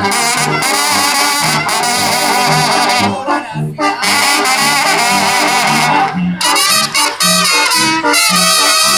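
Mexican banda brass section playing an instrumental passage: trumpets and trombones carry the melody over a pulsing tuba bass, with two short breaks between phrases.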